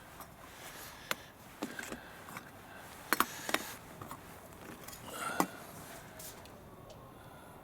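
A handful of short, sharp clicks and knocks of objects being handled, the loudest a quick pair about three seconds in, over a faint steady background.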